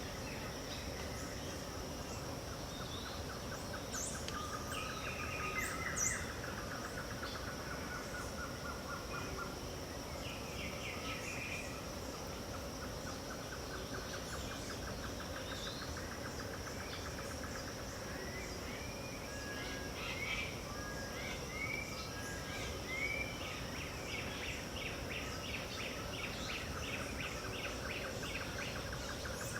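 Dawn chorus of many wild birds in the Pantanal wetland, with overlapping chirps, whistles and rapid trills, over a steady high insect drone. A long rapid trill runs through the first part, and a burst of quick chirping and repeated notes comes in about two-thirds of the way through.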